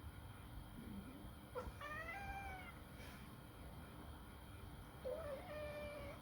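Turkish Angora cat yowling during mating: two long, drawn-out calls, the first rising then bending down, the second starting about five seconds in and held.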